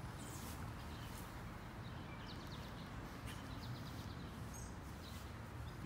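Faint birds chirping now and then over a low, steady background rumble.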